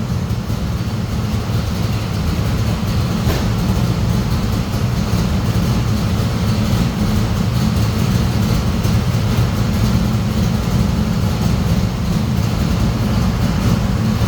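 Chevrolet small-block 400 V8 in a 1979 Monte Carlo idling steadily through its newly installed exhaust, a deep, even exhaust note.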